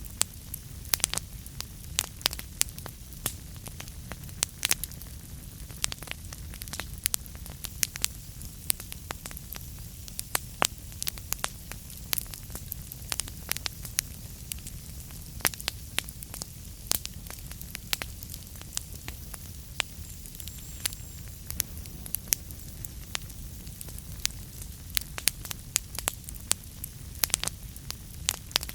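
Wood fire in a fireplace crackling: sharp pops and snaps several times a second at irregular intervals, over a steady low rumble of the burning fire.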